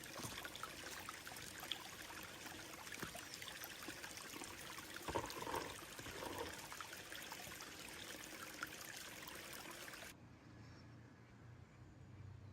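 Water running steadily, a continuous wash of noise like a stream or trickle. It cuts off abruptly about ten seconds in, leaving only a faint low hum.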